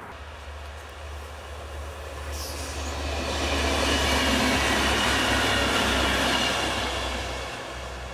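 A two-car diesel multiple unit passes by. Its engine hum and wheel-on-rail noise grow louder, peak about four to six seconds in, then fade as it moves away.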